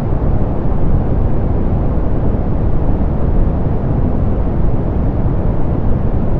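Steady, softened pink noise: an even, deep hiss with its weight in the low end and the highs rolled off, unchanging throughout.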